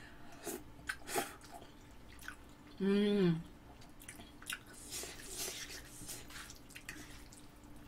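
Close-up mouth sounds of someone eating noodles: soft wet chewing and smacking clicks, with a short voiced 'mm' with falling pitch about three seconds in.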